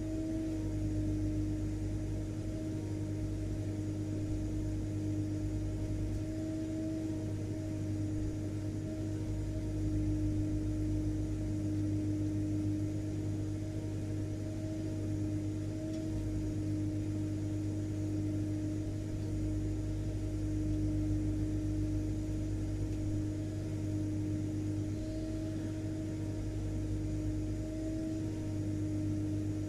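Vacuum cleaner motor running steadily, a constant drone with a steady hum on one pitch over a low rumble and an airy hiss.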